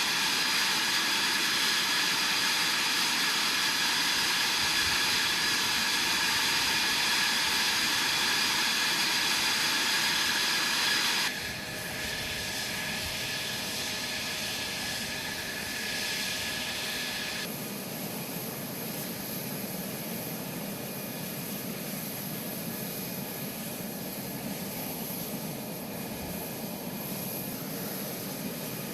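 Mitsubishi F-2's General Electric F110 turbofan running with a steady high-pitched whine. About eleven seconds in it drops suddenly to a quieter jet sound, and some six seconds later it changes again to a lower, rushing jet noise.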